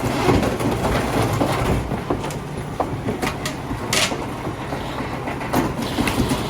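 Garbage truck working: its diesel engine runs steadily under a series of metallic clanks and knocks, with one sharp, loud burst about four seconds in.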